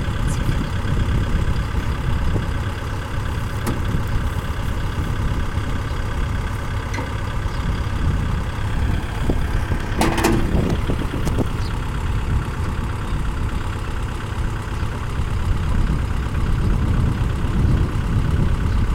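Kubota farm tractor's diesel engine running steadily, with a sharp knock about ten seconds in and a few fainter clicks.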